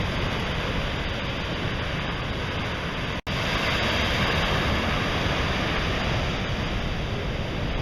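Ocean surf washing up on a sandy beach: a steady rush of noise, which cuts out for an instant a little after three seconds in.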